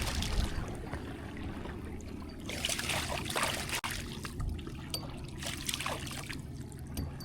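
Water trickling and splashing at the side of a kayak, with louder splashes about two and a half seconds in and again near six seconds.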